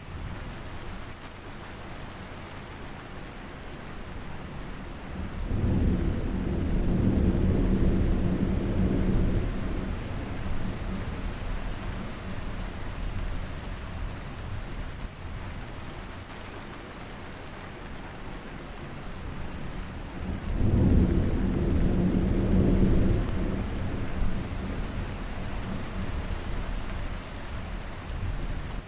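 Steady rain falling, with two low rolls of thunder: one starting about five seconds in and another about twenty seconds in, each lasting several seconds.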